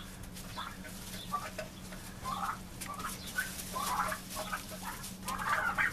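A flock of young Broad Breasted Bronze turkeys calling with many short, repeated clucking notes, busiest about four seconds in and near the end.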